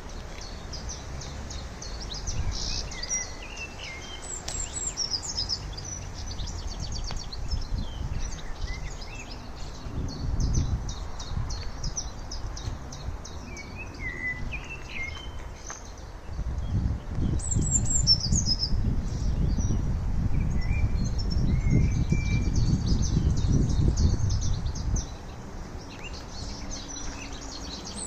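Several songbirds singing and chirping in quick, high trills throughout. Over the middle and later part a low rumble rises and then fades, louder than the birdsong.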